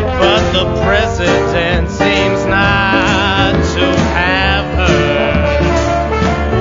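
Klezmer-style folk-punk band music, an instrumental passage with a wavering, held melody line over a steady bass.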